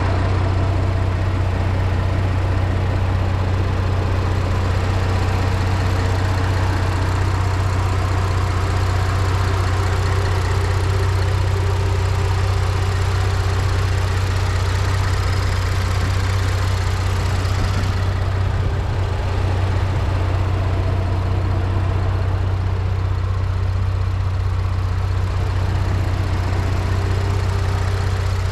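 2010 Ford Taurus SHO's 3.5 L EcoBoost twin-turbo V6 idling steadily, heard with the hood open, with a strong, even low hum.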